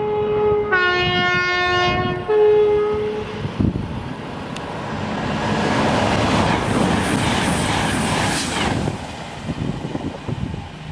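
CrossCountry Class 220/221 Voyager diesel multiple unit sounding its two-tone horn on approach, high, low, then high again, for about three seconds. It then runs through at speed, a rush of wheels and air that builds to a peak about eight seconds in and fades away.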